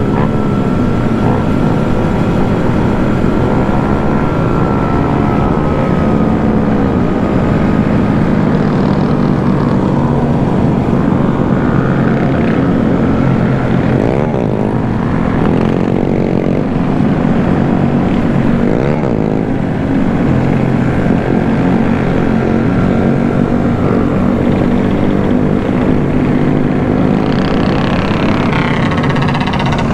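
Motorcycle engines running in a group ride, loud and steady, with the pitch rising and falling as riders rev about halfway through and again near the end.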